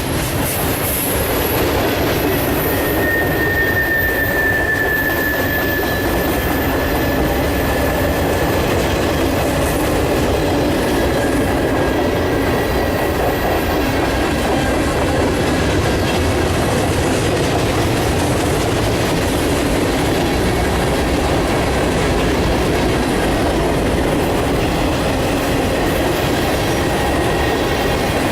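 Mixed freight train rolling past: a steady, loud rumble and clatter of steel wheels on rail. A thin wheel squeal comes in about three seconds in, falls slightly in pitch and fades out around twelve seconds in.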